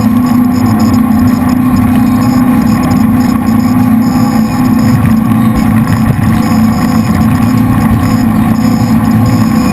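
The jet boat's three V8 engines running steadily under way, a loud, even drone that holds its pitch.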